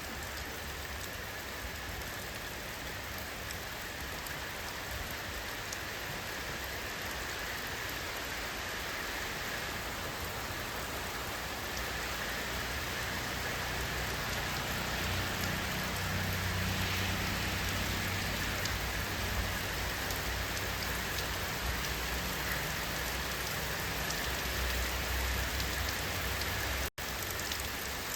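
Steady rain falling on surfaces as an even, dense patter. A low rumble swells in the second half. Near the end the sound cuts out for a split second and resumes.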